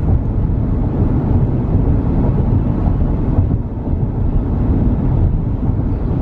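Steady road and engine noise inside a moving car's cabin, a low rumble that dips slightly a little past halfway.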